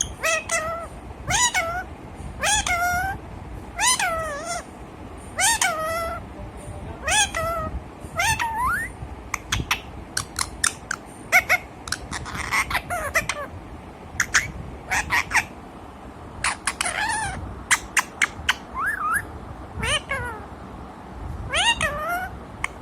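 A pet parrot calling: drawn-out calls that bend down and back up in pitch, about one every second and a half, then a run of shorter, sharper calls and clicks from about ten seconds in.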